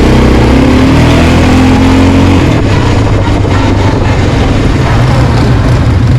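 Quad bike engine accelerating, its pitch rising over the first two seconds, then running steadily at speed.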